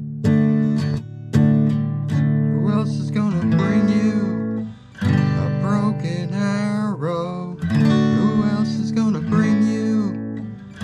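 Acoustic guitar strummed in a steady groove, with a gliding melody line over the chords from about three seconds in.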